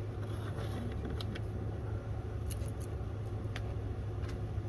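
Light clicks and taps of small metal hardware being handled, over a steady low hum.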